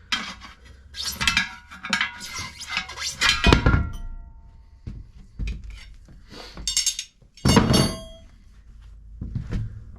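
Metal clinks and clanks of tire-changing work on a steel tractor wheel rim. There is a heavy thud about three and a half seconds in and a loud ringing metallic clang near eight seconds.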